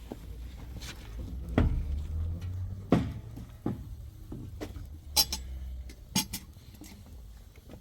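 Five or six sharp clinks and knocks of hard objects striking, spaced a second or two apart, over a low steady hum.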